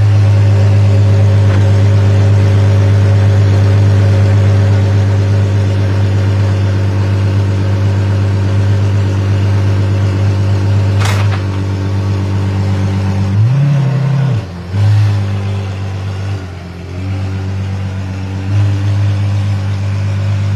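Apollo Intensa Emozione's 6.3-litre V12 idling steadily and loud, with a couple of short throttle blips about two-thirds of the way through and a single sharp click about halfway.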